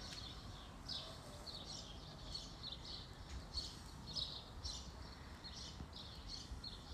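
Small birds chirping, a run of short high chirps at about three a second, over a low rumble.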